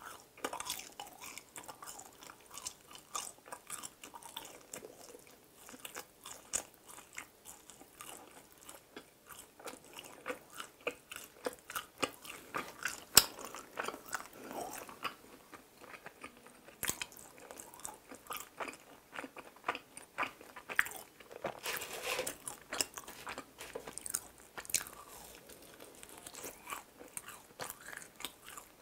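Close-miked mukbang chewing of fried mini glutinous-rice donuts: a steady run of soft crunches and wet mouth clicks, with one sharp click about 13 seconds in.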